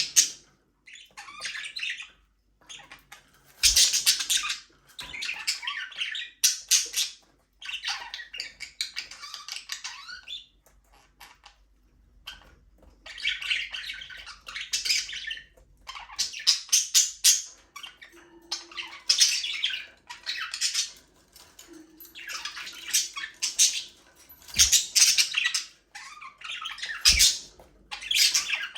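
Several budgerigars chattering and squawking in bursts of quick, high chirps, with short pauses between bursts.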